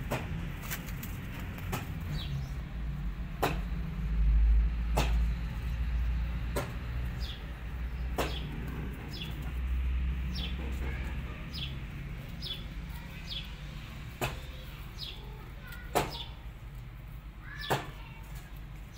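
Outdoor ambience of a bird's short, sharp chirps repeating roughly once a second, over a low rumble of wind on the microphone.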